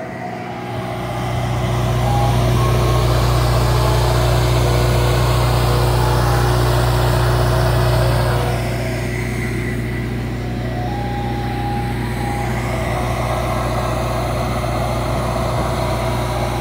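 Parked ice cream truck idling: a steady low mechanical hum that grows louder about a second in and eases off somewhat around eight seconds.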